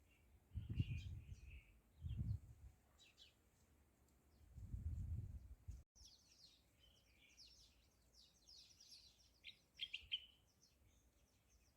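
Faint birds chirping, with many short high chirps crowding the second half. Three low rumbles come in the first half.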